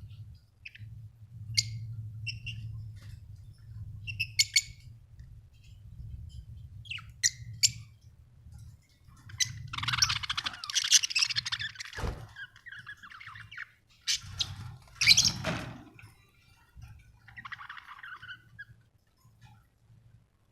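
Budgerigar chirping and chattering: scattered short high chirps, then bursts of dense, scratchy warbling chatter about halfway through and again about three quarters of the way in, ending in a softer warble.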